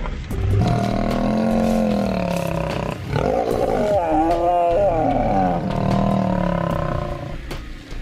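Male lions snarling and growling at each other face to face in a territorial standoff. There are about three long snarls one after another, sliding down in pitch, and the middle one wavers.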